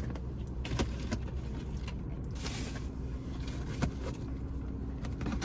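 Takeout food packaging being handled: several light clicks and a brief rustle about two and a half seconds in, over a steady low hum.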